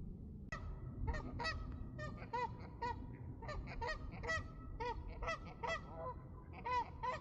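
A flock of geese honking: many short, overlapping calls that begin abruptly about half a second in, over a steady low rumble.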